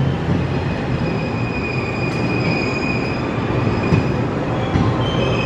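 Departing diesel express train (JR Shikoku 2700 series) rolling away through the station with a steady rumble, and a high, thin wheel squeal that is strongest in the middle.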